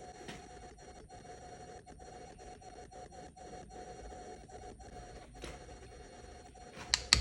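Faint steady hum with scattered light clicks of handling. Near the end, rapid sharp hammer taps begin, about four a second, louder than anything before.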